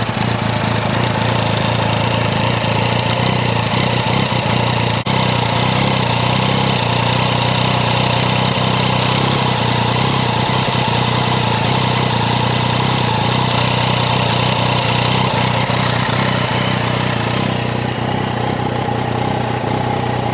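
Yamaha XSR900's CP3 three-cylinder engine idling steadily in neutral, the clutch lever out. It carries the abnormal noise typical of the CP3 engine, which the owner puts down to the internal chain and cures by adjusting it. The sound changes slightly near the end.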